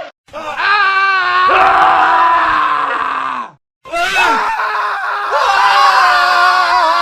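Men screaming in a spliced montage: one long scream whose pitch drops near its end, then a brief dead gap about three and a half seconds in before another man's scream starts.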